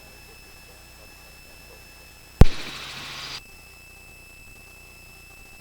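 Helicopter intercom audio: a faint steady hum with thin high whine tones, broken about halfway through by a sharp click and about a second of hiss that cuts off suddenly, like a microphone being keyed open and closed.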